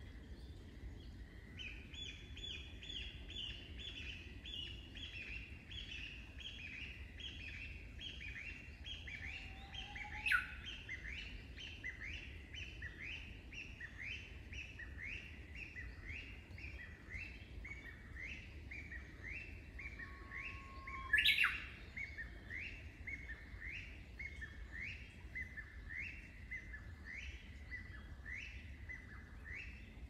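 Birds chirping. One bird repeats a short chirp over and over, about once or twice a second, the notes slowly sinking in pitch. Two louder, sharp single calls break in, about ten and twenty-one seconds in.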